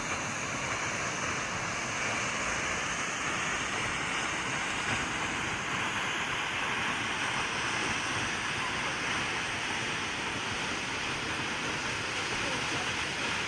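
Steady rushing of Bridal Veil Falls, a 55 m plunge waterfall, growing slightly louder a few seconds in.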